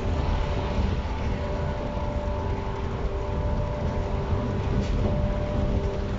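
A JR East 115 series electric train standing at a platform with its doors open, its onboard equipment humming steadily with several steady whining tones over a low rumble.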